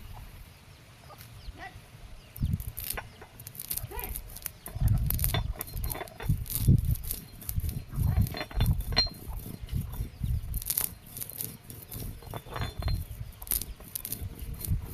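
Domestic chickens clucking now and then, over a repeated low rumble buffeting the microphone.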